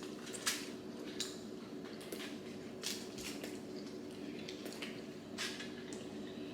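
People eating at a table: about six scattered sharp clicks and crunches of bites and of food and utensils against plates, over a steady low hum.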